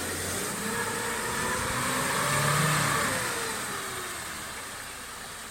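Off-road 4x4's engine revving up to a peak about two and a half seconds in, then easing off, as the vehicle strains to move off through the mud.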